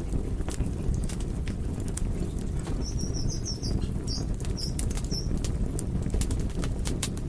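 Wood fire burning with a steady low rumble and frequent sharp crackles and pops. A few short high chirps come between about three and five seconds in.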